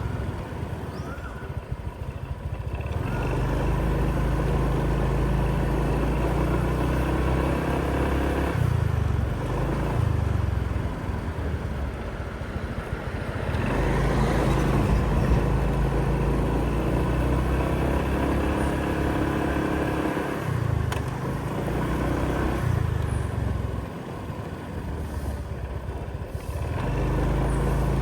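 A motor vehicle engine running, its low hum swelling and easing several times, with quieter stretches about a third of the way in and again near the end.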